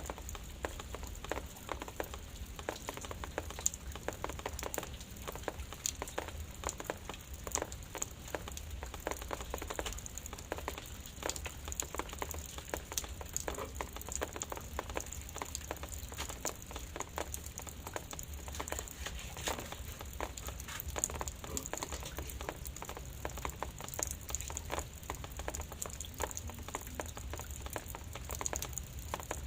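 Light drizzle pattering: a dense, irregular scatter of small drop ticks, over a steady low rumble.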